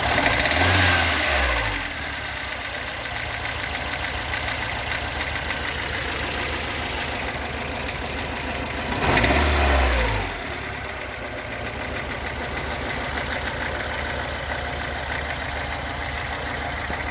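Toyota AE86's stock 4A-GE bigport "blue top" four-cylinder engine idling roughly with a knocking sound, blipped twice to a short rev that rises and falls, about half a second in and again about nine seconds in. The owner has not yet found the cause of the rough idle and knock.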